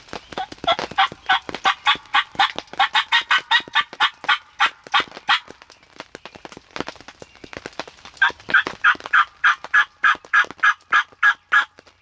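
Hunter's turkey call sounding hen yelps, run in two long series of quick, evenly spaced notes about four or five a second, to draw a gobbler to the field.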